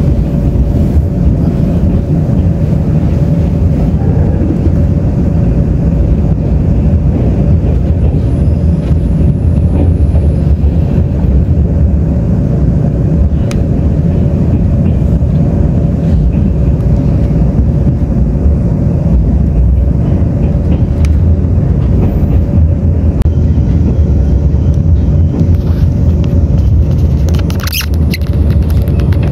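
Tze-Chiang express train running at speed, heard from inside the carriage: a steady, loud low rumble of wheels on rail with a constant hum. The rumble briefly dips with a short hiss near the end.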